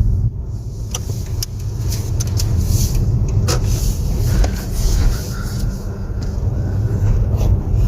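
Car driving, heard from inside the cabin: a steady low rumble of engine and tyre noise, with a few scattered light clicks.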